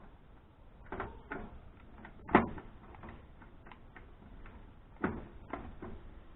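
Scattered clicks and knocks of hand tools, screws and metal parts being handled while an amplifier is taken apart. The loudest knock comes a little over two seconds in, with another sharp one about five seconds in.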